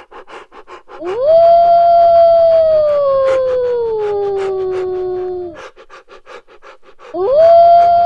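A dog howling: one long howl that rises quickly, holds, then slides down in pitch over about four seconds. A second howl starts about seven seconds in.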